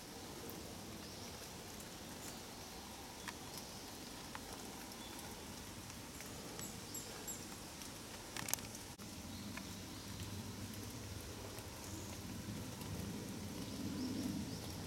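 Steady rain, with scattered drops tapping on an umbrella overhead and one sharper tap about eight seconds in. A few faint, high bird chirps come in about halfway through.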